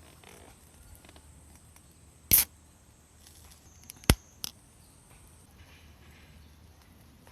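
A loud short knock about two seconds in, then a sharp click a couple of seconds later followed by a fainter one, over a quiet background.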